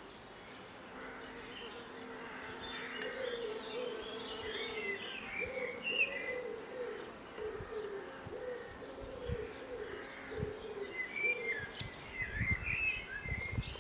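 Recorded spring birdsong: a dove cooing in a repeated low, wavering phrase through the middle, over higher chirps from small birds that grow busier near the end.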